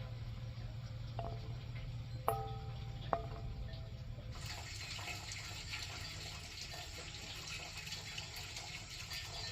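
Water running or splashing. It becomes louder and hissier about four seconds in, with a few short ringing clinks before that.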